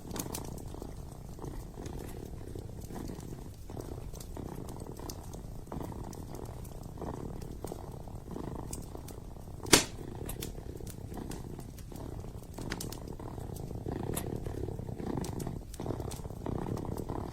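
Kitten purring steadily, in slow waves of a low rumble, with the crackle of a wood fire in a fireplace: scattered small snaps and one loud pop a little past halfway.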